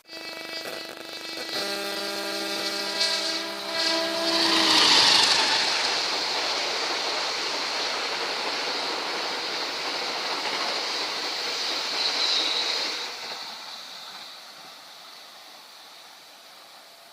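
A train's horn sounds for about five seconds, then a long passenger train passes with a loud steady rush of wheels on the rails, fading away after about thirteen seconds.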